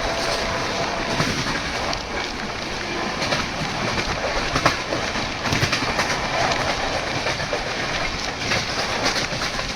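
Moving passenger train: a steady rush of running noise with irregular clicks and clacks of the wheels over the rail joints.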